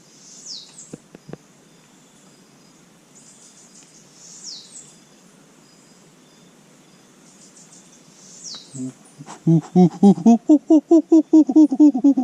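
Tropical forest ambience: a steady high insect chorus with falling whistled bird notes every few seconds. Near the end comes a loud, rapid run of pitched notes, about five a second, from a person's voice.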